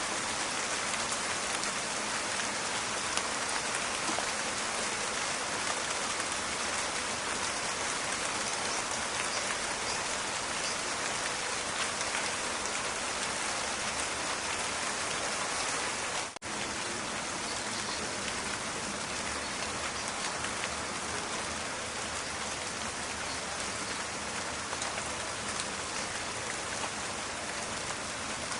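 Steady rain with a dense crackle of raindrops. It cuts out for an instant about halfway through, then carries on as before.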